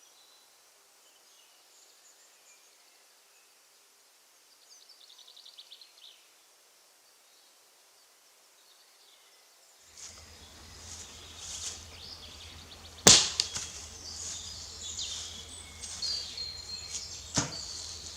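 Faint chirps in near quiet, then rustling and two sharp cracks about four seconds apart.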